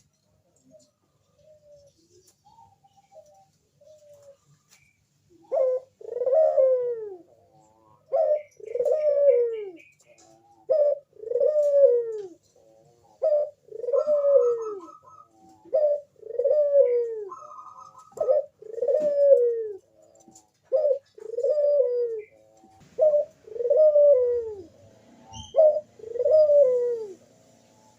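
Crossbred puter dove (ringneck dove) cooing over and over. Each call is a short note followed by a longer coo that falls in pitch, about one call every two and a half seconds. The calls start loud about five seconds in, after some faint cooing.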